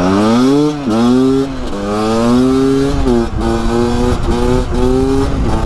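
Beta RR300 two-stroke single-cylinder engine running hard under acceleration. Its pitch climbs and drops back sharply at gear changes, about a second in and again about three seconds in.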